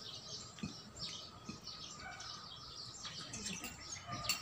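Birds chirping, many short calls in quick succession, with a few soft clicks.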